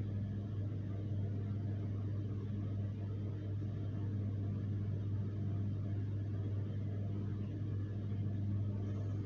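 A steady low hum over a faint hiss, unchanging, with no animal call or other distinct event.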